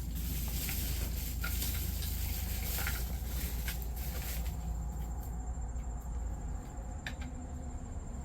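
Plastic packaging rustling and small clicks as the propane regulator and hose are taken out of their package and handled, over a low steady rumble.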